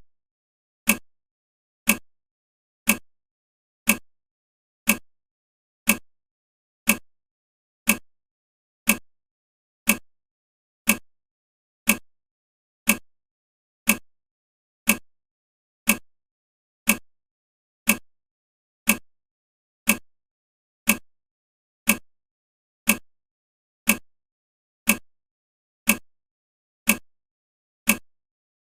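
Countdown timer's clock-tick sound effect: one short, sharp tick every second, all alike and evenly spaced, marking off the seconds of the countdown.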